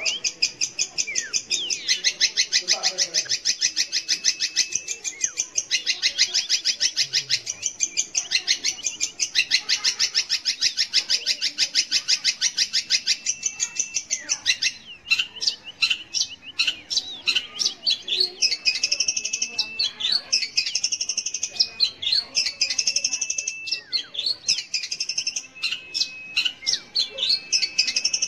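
Long-tailed shrike singing: a fast, harsh, continuous chatter for about the first half, then breaking into separate notes and a looping phrase repeated about every second and a half.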